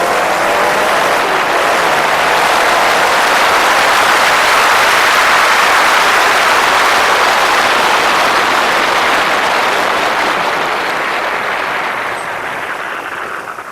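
A Cobra and a race-built big-engine Fiat drag-racing at full throttle down the quarter mile: a loud, continuous engine roar that builds for the first few seconds and then fades near the end.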